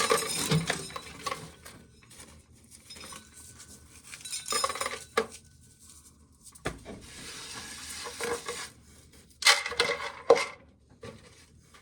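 Dry ear corn being shelled by hand: kernels and cobs rattling and clattering into containers in irregular bursts, with a few sharper clinks near the end.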